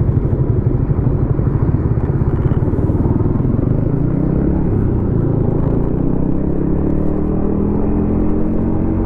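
Yamaha XSR155's 155 cc single-cylinder engine through a DIY exhaust, heard from the rider's seat. It starts with a low, rapid pulsing, then its pitch climbs slowly through the second half as the bike accelerates.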